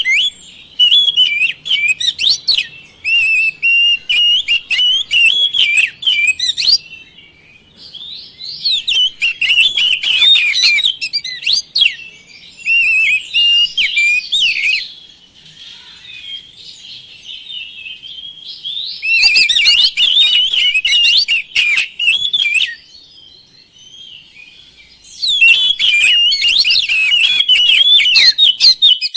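Oriental magpie-robin singing: rapid, varied whistled phrases in several loud bouts a few seconds long, with softer song in the pauses between them.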